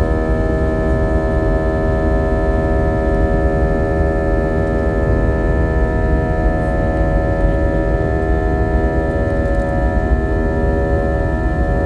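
Sukhoi Superjet 100's SaM146 turbofan engines heard inside the cabin: a loud, steady drone made of many held tones over a low rumble. This is the odd hum that the passenger likens to riding a propeller boat.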